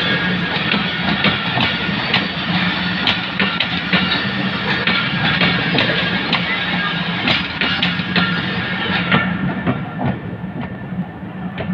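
Pakistan Railways passenger coaches rolling past, their wheels clicking and clattering irregularly over the rail joints, over a steady low hum.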